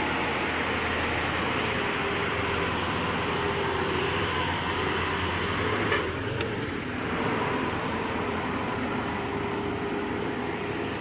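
Steady vehicle noise of heavy engines and road traffic, with a brief click about six seconds in.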